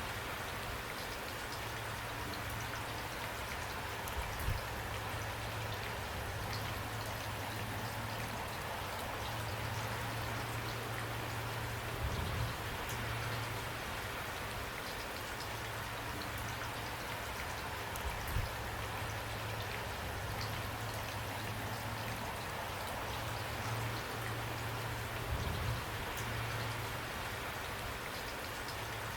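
Steady rain, a constant hiss with individual drops ticking, a low rumble underneath and a few heavier thuds now and then.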